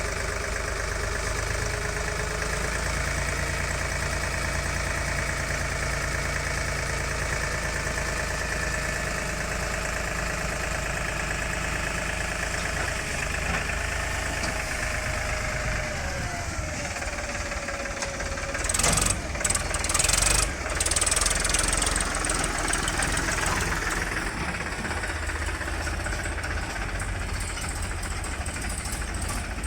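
Heavy diesel engine running steadily, its pitch shifting as the revs change. About two-thirds of the way through comes a louder, harsh rushing stretch lasting a few seconds.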